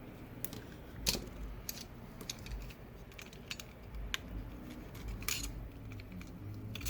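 Light, irregular clicks and taps of small tools and parts being handled on an iPad Pro's frame during a screen repair, with the sharpest clicks about a second in and about five seconds in.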